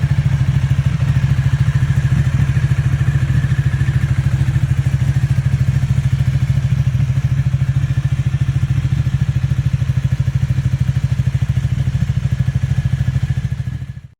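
Ducati Panigale 1199S's Superquadro L-twin running steadily through a Termignoni exhaust, a loud, even pulsing with no revving. It fades out near the end.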